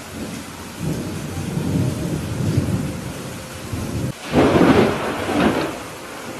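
Thunderstorm: steady rain with a low thunder rumble building about a second in, then a louder, sharper thunderclap just past the middle that fades out near the end.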